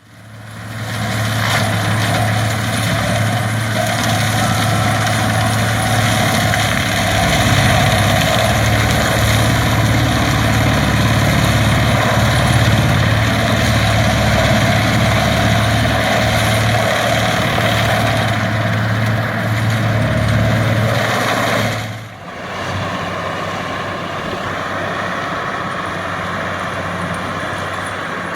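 Fendt tractor engine running steadily with a strong low hum. About 22 seconds in the sound drops abruptly to a quieter, thinner engine noise.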